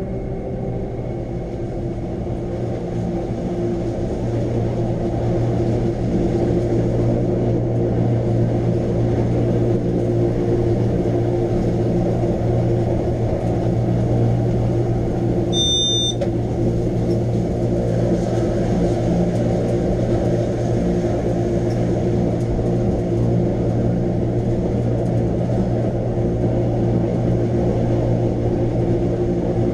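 Electric rack-railway train running: a steady motor hum with a low drone, growing a little louder over the first few seconds. A brief high beep sounds about halfway through.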